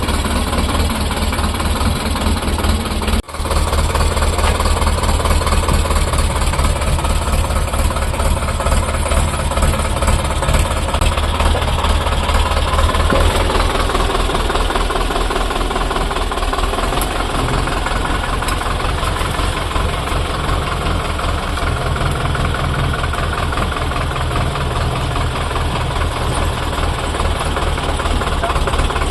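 Sonalika DI 750 tractor's diesel engine running steadily with a knocking diesel clatter. The sound drops out for a moment about three seconds in.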